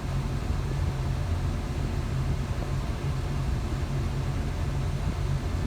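Tractor engine running steadily, heard from inside the cab: an even low drone.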